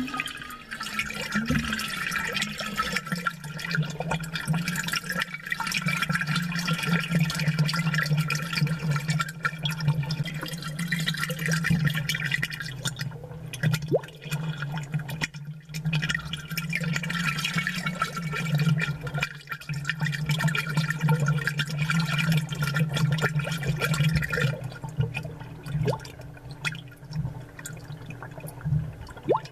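Amplified aquarium water and air bubbles gurgling and popping in many small clicks over a steady low hum.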